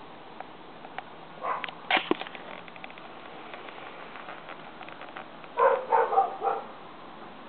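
Ring-necked parakeets squawking: a couple of short, loud calls about a second and a half in, then a quick run of four about five and a half seconds in, with a few faint clicks between.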